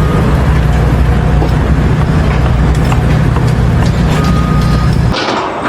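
A large engine running steadily with a heavy rumble, cut off abruptly about five seconds in.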